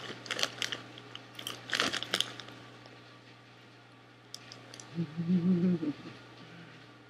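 Crunchy puffed Cheetos cheddar jalapeño popcorn being bitten and chewed, a quick run of crackling crunches over the first two seconds. About five seconds in comes a brief hum of the voice, about a second long.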